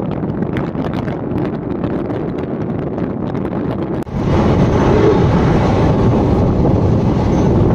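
Passenger train running at speed, heard from an open coach doorway: wind buffeting the microphone over the rumble and clatter of the coaches, with sharp clicks in the first half. About four seconds in the noise gets suddenly louder and brighter as the train passes a level crossing and a close lineside wall.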